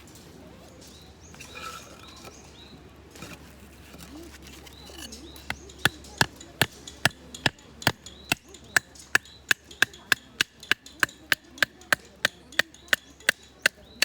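Wood being chopped: a steady run of sharp wooden strikes, about two and a half a second, starting about five seconds in.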